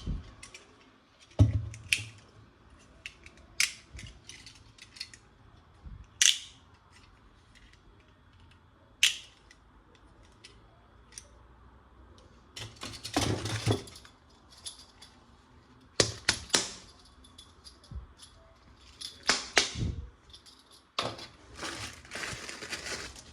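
Plastic toy gun parts and packaging being handled: scattered clicks and snaps, with a few short bursts of rustling.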